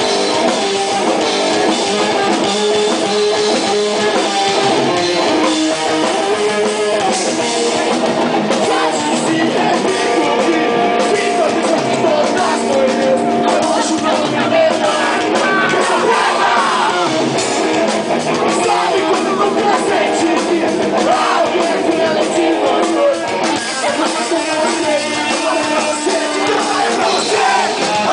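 Rock band playing live: electric guitars and drum kit, with singing.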